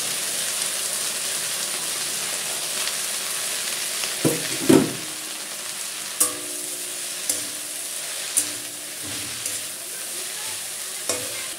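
Chopped jute leaves sizzling in a little hot oil in a metal kadai. A metal spatula stirs them, knocking and scraping against the pan every second or so; the loudest knocks come about four to five seconds in.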